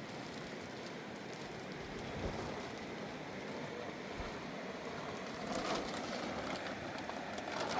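Heavy rain falling, a steady hiss that grows slightly louder toward the end.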